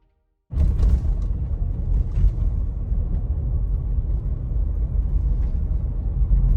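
Loud, steady low rumbling noise that starts abruptly about half a second in and cuts off suddenly at the end.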